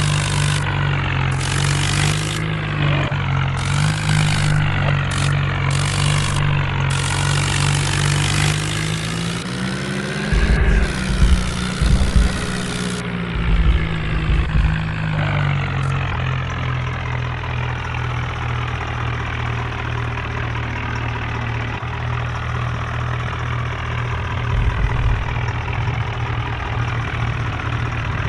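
HMT diesel tractor engine running steadily, its pitch rising as it revs about ten seconds in, then settling back to a steady run. Low thuds come during the rev, and there is on-and-off hiss in the first half.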